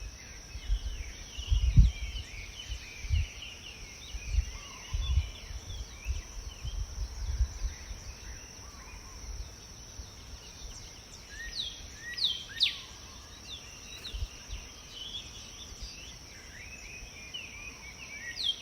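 Small birds chirping and calling, with several quick falling whistles in the second half, over a steady high-pitched whine. Several low thumps or bumps come in the first few seconds.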